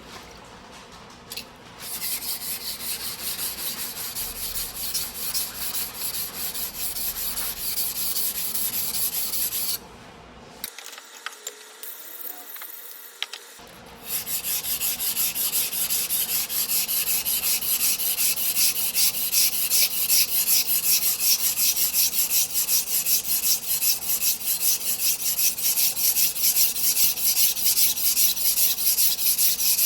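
Steel knife blade (a 270 mm single-bevel sujihiki) being pushed back and forth on a water whetstone, a steady rhythmic scraping. The strokes break off for a few seconds around a third of the way in, then resume louder.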